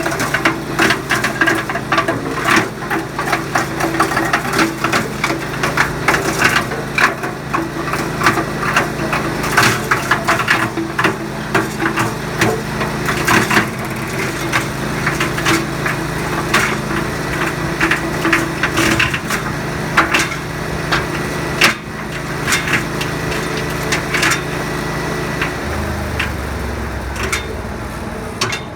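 A 4-inch gravity-fed wood chipper running at full throttle, its blades cracking and splintering branches in quick, irregular snaps over a steady engine hum. Near the end the chipping stops and the engine drops to a lower, steady idle.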